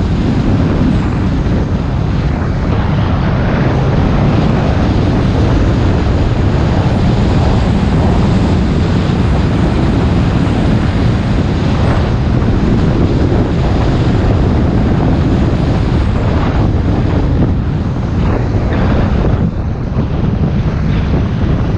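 Loud, steady wind rushing over the microphone of a moving motorcycle, mixed with the bike's running noise.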